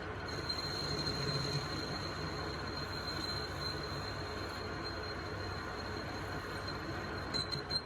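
A metalworking machine running steadily in a gear repair: an even rushing noise with a thin high whine held over it.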